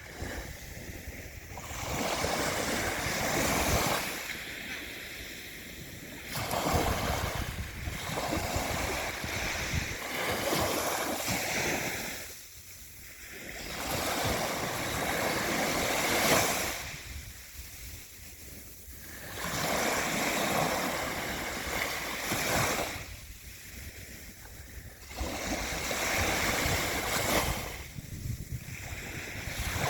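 Sea waves breaking on the shore, each surge of surf swelling up and washing back, several in turn with quieter lulls between.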